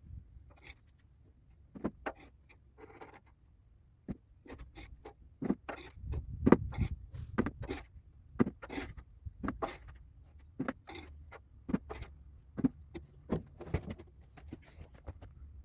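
Irregular metallic clicks, knocks and scrapes from hand work around a hydraulic cylinder, coming in quick uneven clusters over a low background rumble.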